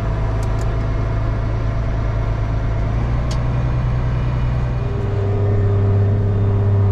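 Engine of a loaded farm hauling vehicle running steadily under way, heard from inside the cab. About five seconds in, the engine gets louder and its note changes as it takes more load.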